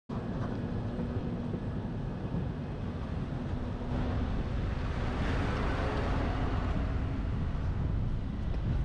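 Wind buffeting a roof-mounted GoPro on a moving pickup truck, over the truck's road and engine noise; it grows louder about four seconds in.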